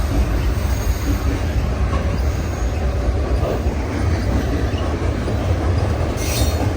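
Freight train cars rolling past close by, a steady heavy rumble of wheels on rail, with a brief high wheel squeal near the end.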